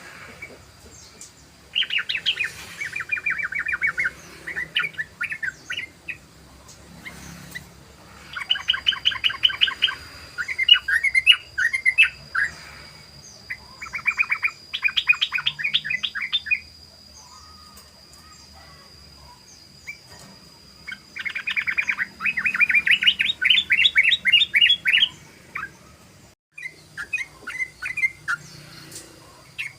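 Yellow-vented bulbul singing in its rapid-fire 'ropel' style: several bursts of fast repeated chirping notes, each burst lasting two to four seconds, with short pauses between.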